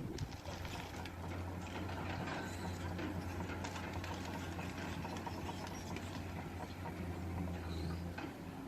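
Komatsu PC200 excavator's diesel engine running steadily, with scattered clanks and knocks from the work.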